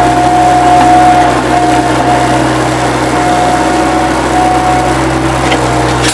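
Bobcat 763 skid-steer loader's diesel engine running steadily, with a high whine that drops out and comes back several times.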